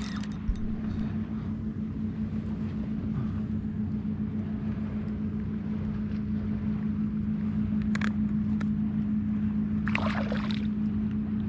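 A boat's motor running at a steady pitch, a constant hum that slowly grows louder. A short click comes about eight seconds in, and a brief rush of noise about ten seconds in.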